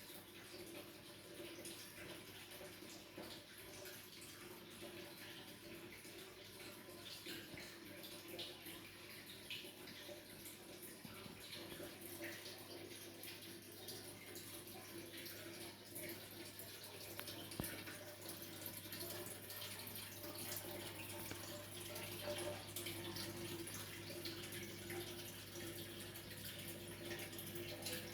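Aquarium overhead sump filter: water trickling and dripping down through the filter tray into the tank, over a low steady hum.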